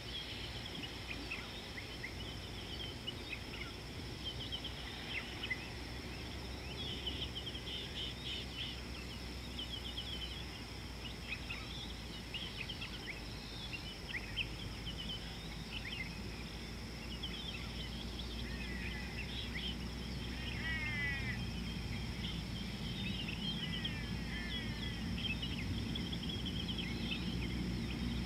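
Several small birds chirping and calling in quick short notes, with a few rapid falling trills in the second half, over a steady high-pitched drone and a low outdoor rumble.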